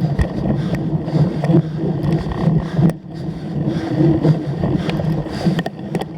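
Cyclocross bike ridden at race pace: a steady rough rumble of tyres and drivetrain with scattered rattling clicks, and wind on the microphone. The noise dips briefly about three seconds in.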